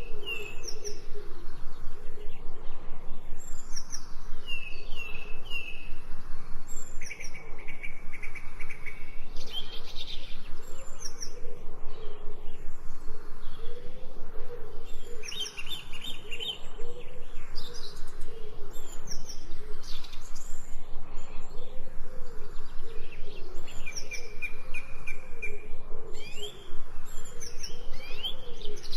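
Mixed forest birdsong: several birds chirping and singing, with short rising whistled notes, a repeated trill twice, and lower calls underneath.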